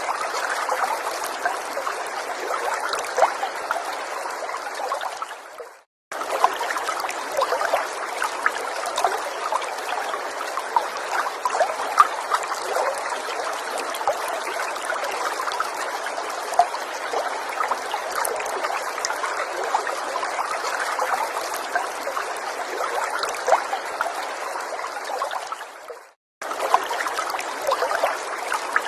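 A small stream trickling steadily, with many small splashes. It fades out to a moment of silence and cuts straight back in twice, about six seconds in and again near the end.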